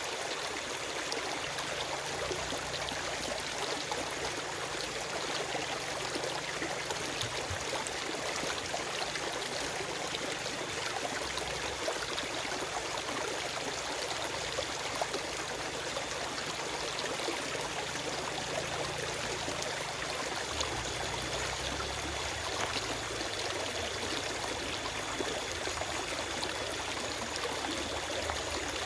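Forest stream flowing over stones: a steady, even rush of water with small trickling splashes.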